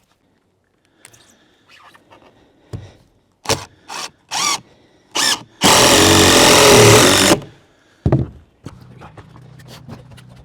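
Power drill driving in, with four short trigger bursts followed by one longer run of under two seconds. A low steady hum comes in near the end.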